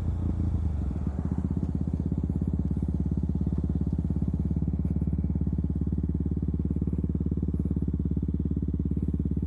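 KTM Duke 200's single-cylinder engine coming off the throttle as the bike pulls over, then settling to a steady idle with an even chug.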